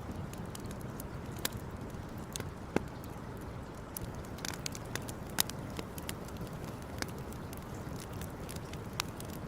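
Campfire crackling: irregular sharp pops and snaps from the burning wood, a few louder than the rest, over a steady low rumble.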